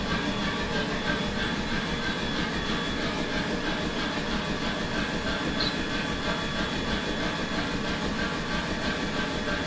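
MIG welder arc crackling steadily as a weld is run, over a steady machine hum.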